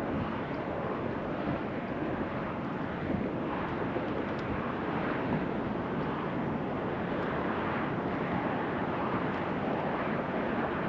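Steady rushing of wind across the open water, an even noise with no distinct events.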